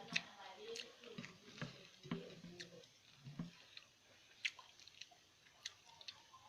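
Close-up eating sounds: chewing with irregular wet mouth smacks and clicks while eating rice with sambal and fried salted fish.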